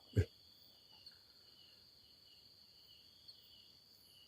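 Night insects, crickets, trilling steadily: a constant high tone with a lower chirp repeating about twice a second. A short, low knock sounds just after the start.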